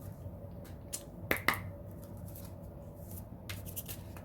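A few sharp snaps and clicks of tarot cards being handled and shuffled, with two louder snaps close together about a second and a half in, over a faint steady hum.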